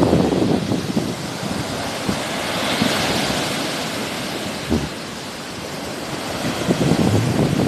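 Sea waves washing on the shore, one wash swelling about three seconds in, with wind buffeting the microphone.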